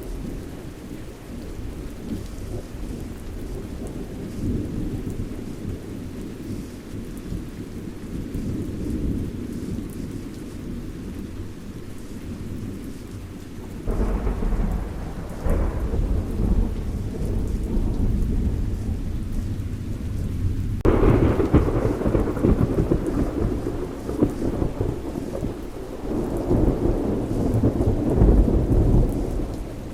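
Thunderstorm: steady rain with low, rolling thunder. A thunderclap breaks in suddenly about halfway through, and a louder one follows about two-thirds of the way in, rumbling on and swelling again near the end.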